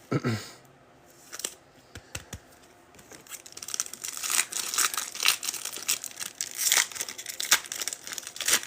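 Foil trading card pack wrappers being torn open and crinkled, with a few light clicks first and steady, denser crinkling from about three seconds in.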